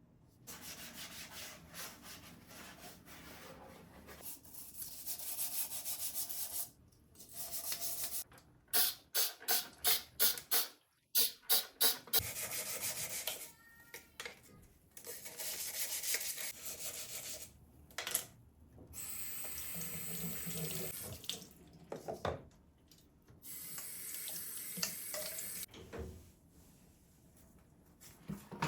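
Water running from a tap into a sink, turned on and off several times, with a run of about seven short, sharp bursts in the middle.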